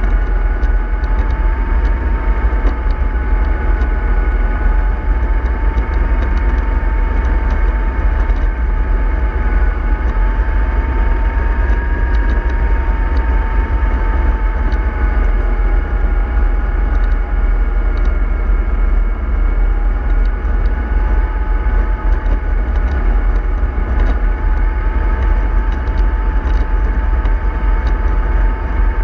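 Vehicle driving steadily: a heavy low rumble under a steady whine that wavers slightly in pitch.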